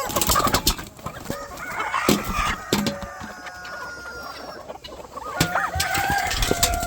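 Free-range chickens clucking, with a rooster crowing near the end.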